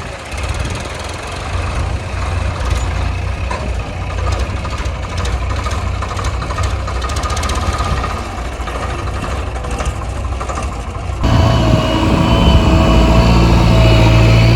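Diesel engines of heavy earth-moving machinery running steadily. About eleven seconds in the sound cuts sharply to a louder engine with a steady whine over it.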